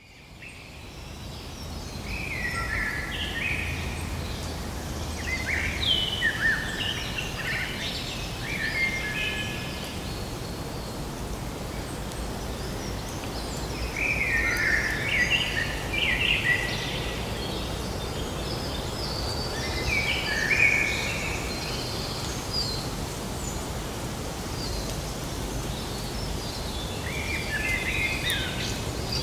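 A songbird singing short phrases of quick chirping notes, several bursts a few seconds apart, over a steady outdoor background hiss that fades in at the start.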